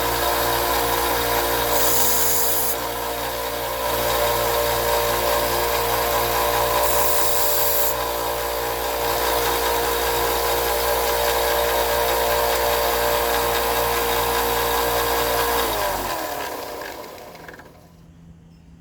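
Electric grinder running steadily as a steel knife blade is ground to reprofile its tip, with brief harsher stretches where the blade bites. Near the end the grinder is switched off and its motor note falls away as it spins down.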